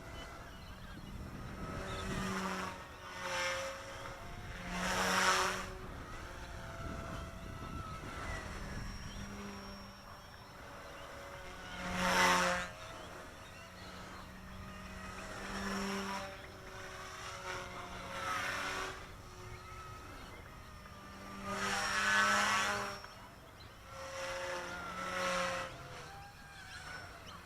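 Micro RC helicopter with a direct-drive brushless main motor flying: a steady whine from the motor and spinning rotor held at a constant head speed. It swells loudly several times as the helicopter sweeps close past the microphone, most strongly about twelve seconds in and again about twenty-two seconds in.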